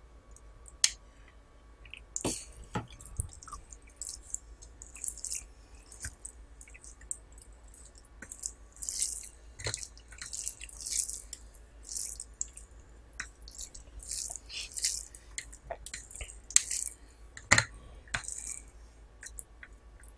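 Close-up wet eating sounds of rice and curry being eaten: a run of short squelching, smacking bursts every half second to a second, with a few sharp clicks.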